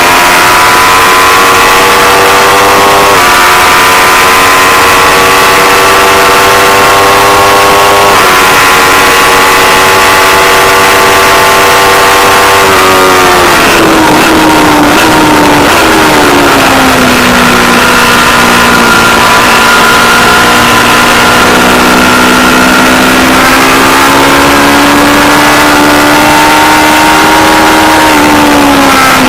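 Aprilia Tuono V4 Factory's V4 engine under hard acceleration on track, its pitch climbing and dropping briefly at upshifts about 3 and 8 seconds in. Around 13 to 16 seconds it falls steeply as the bike brakes and downshifts, holds low, then climbs again as it pulls out of the corner.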